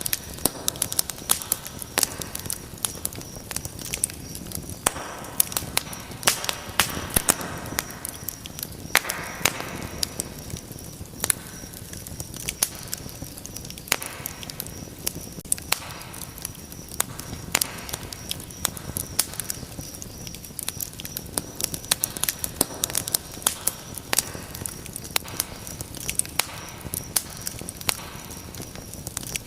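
Fireplace fire crackling, with sharp irregular pops and snaps over a steady soft hiss of flames.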